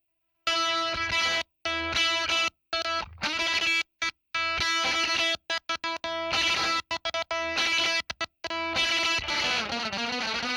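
Music: distorted electric guitar playing chords, cut off again and again by sudden short silences, then running on without breaks near the end.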